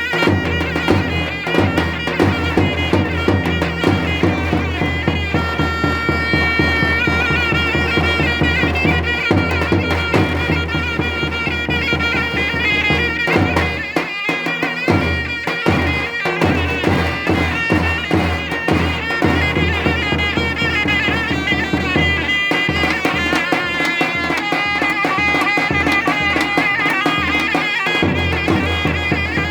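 Davul and zurna playing Turkish folk music: the zurna's double-reed melody rides over the beat of the large davul drum.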